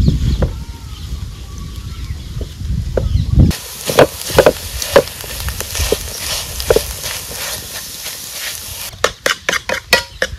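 Cooking sounds, with several cuts. Low knocks and rumble first. About three and a half seconds in, a steady sizzle with crackles, as of food frying in hot oil. Near the end, a quick run of sharp clicks.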